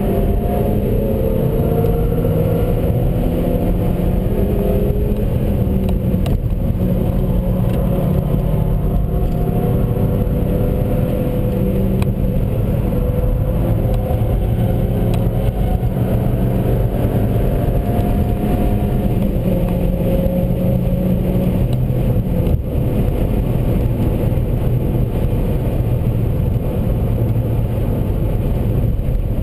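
Seat Leon Cupra 1P's turbocharged four-cylinder engine running steadily over road noise, its pitch drifting slowly up and down with small throttle and speed changes. The engine note fades into the rumble over the last few seconds.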